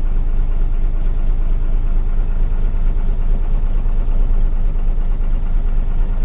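Truck diesel engine running steadily under way, heard from inside the cab.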